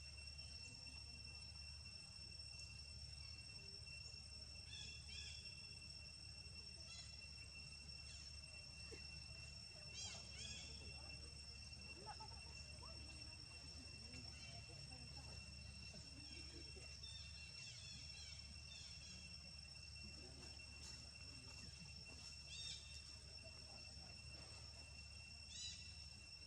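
Faint, steady insect trilling held on a few high tones, with short high chirps now and then from another animal.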